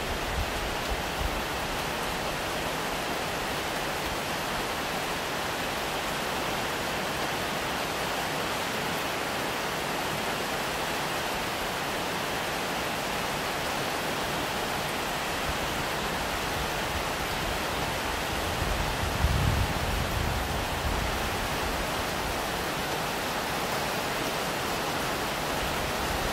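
Heavy rain falling, a steady hiss. About three-quarters of the way through, a low rumble swells briefly.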